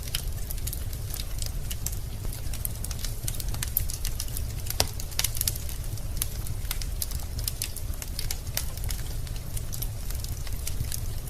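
Wood fire crackling in a fireplace: burning logs give irregular sharp pops and snaps over a steady low rumble of the flames.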